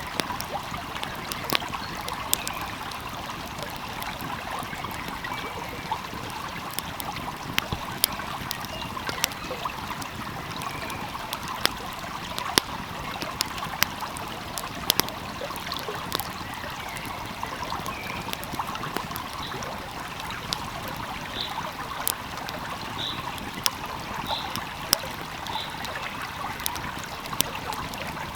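Wood fire crackling, with sharp irregular pops, over the steady rush of a flowing stream. A few faint short high chirps come in the second half.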